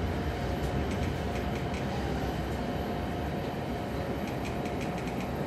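Keiyo Line commuter train heard from inside the passenger car while running: a steady rumble of wheels on rail, a faint steady whine, and scattered light clicks.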